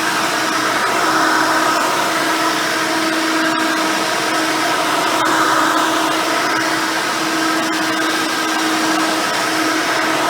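Custom Hoover Elite 600 upright vacuum with a single-row brush roll running steadily on carpet: a constant motor whine over a rushing airflow hiss, swelling slightly in loudness now and then.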